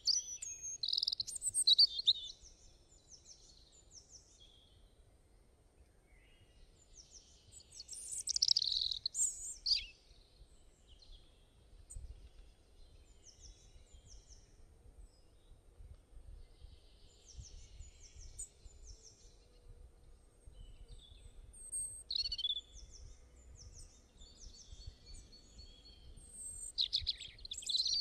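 Songbirds chirping and calling in short repeated phrases, in bouts with quieter gaps between, over faint low background noise.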